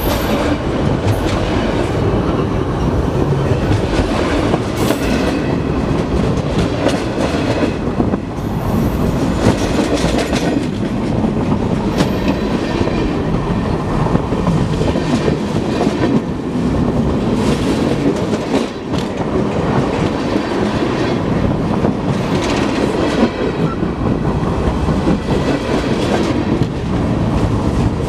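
Freight cars of a manifest train rolling directly overhead, heard from between the rails: a loud, steady rumble of steel wheels on the rails, with repeated clacks as the wheel trucks pass over.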